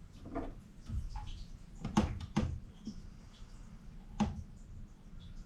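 Scattered handling noises of hand work on fittings and tools: several sharp clicks and knocks, the loudest about two seconds in, over a faint low hum.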